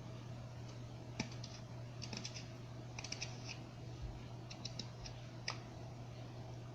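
Carving knife paring pine, a scatter of faint, crisp clicks and snicks as the blade cuts through the wood, here working across the grain.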